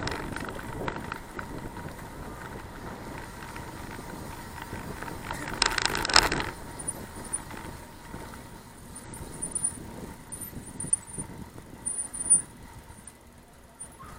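Bicycle riding noise: continuous road and wind rumble with rattling and small clicks, a faint steady whine underneath, and a louder clatter about six seconds in.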